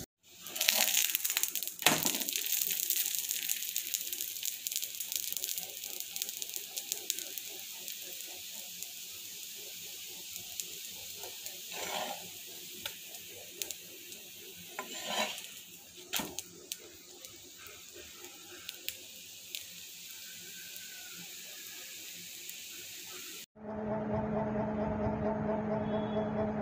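Green gram batter crepe sizzling and crackling on a hot pan, with a sharp knock about two seconds in and a few louder scraping bursts later. Near the end it cuts off suddenly into a steady low hum.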